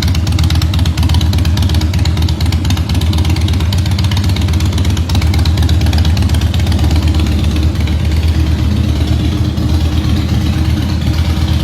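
Harley-Davidson Softail Deluxe's V-twin engine idling steadily.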